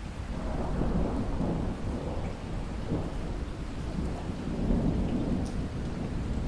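Steady rain with a long rumble of thunder that swells about half a second in and rolls on.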